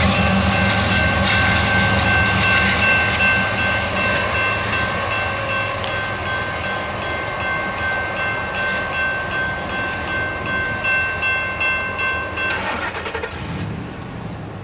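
Union Pacific double-stack intermodal freight train passing, with its locomotive horn holding a steady chord that cuts off suddenly about twelve seconds in. Low engine rumble and wheel clatter on the rails fade as the train draws away.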